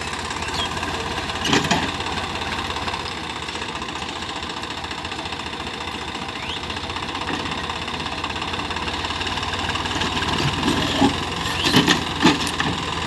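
Swaraj 855 tractor's three-cylinder diesel engine running steadily as the stuck tractor tries to pull itself free, getting a little louder toward the end. Sharp knocks stand out about a second and a half in and several more near the end.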